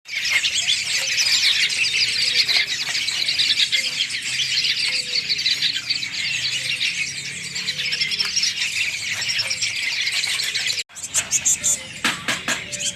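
Many hand-fed songbird chicks calling together, a dense chorus of high shrill squeals typical of young birds begging for food. About eleven seconds in it cuts off abruptly, and sharper separate chirps follow.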